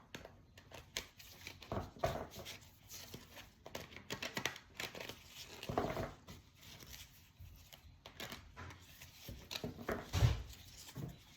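A deck of oracle-style archetype cards being shuffled by hand: irregular rustling, sliding and flicking of card stock, with a few louder knocks.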